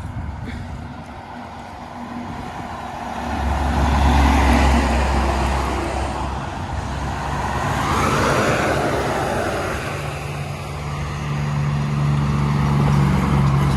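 Trucks passing on the road: engines running and tyre noise swelling and fading, with one vehicle loudest about eight seconds in and another engine's steady note building near the end.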